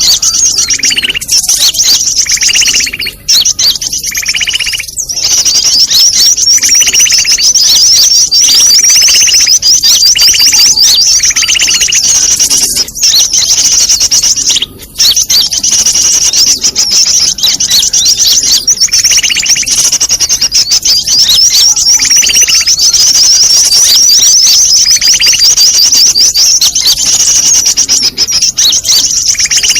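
Bird-trapping lure recording of a noisy mixed bird chorus: a dense, continuous stream of rapid high chirps, with a lower call repeating every second or two.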